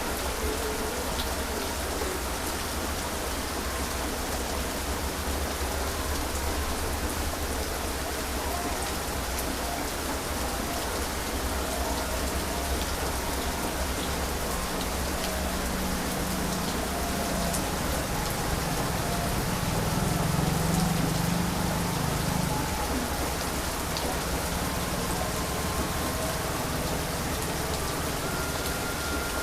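Heavy rain falling steadily, an even hiss of rain on surfaces, with a low rumble that swells and fades in the middle.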